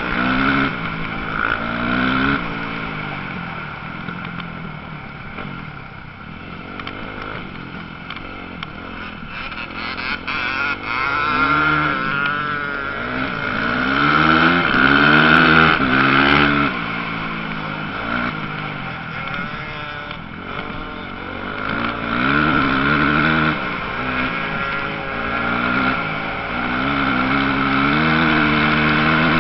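Motocross motorcycle engines racing, revving up and falling back again and again, growing louder as the bikes come close about halfway through and again near the end.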